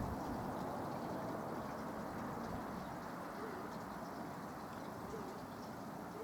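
Steady, low outdoor rumble that fades slowly, with a few faint wavering tones in the second half.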